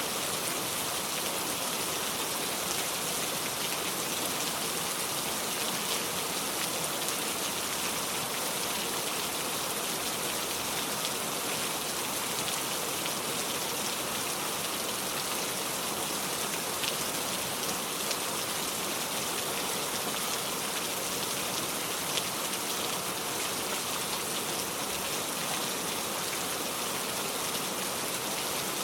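Heavy rain falling steadily on a metal roof, an even hiss with a few sharper drop ticks now and then. No thunder.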